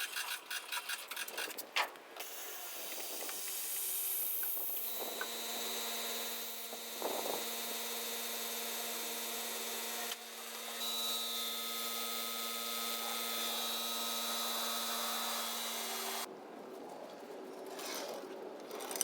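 A small motor, typical of a power tool, running with a steady whine for about eleven seconds. Before it come a rapid run of clicks, and it changes abruptly partway through.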